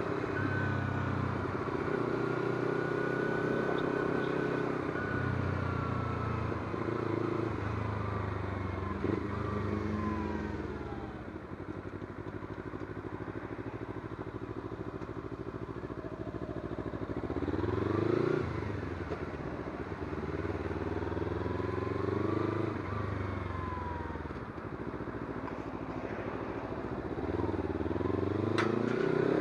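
Kawasaki Z250 parallel-twin engine heard on the move, its note rising and falling with throttle and gear changes. The revs climb about two-thirds of the way in and again at the end.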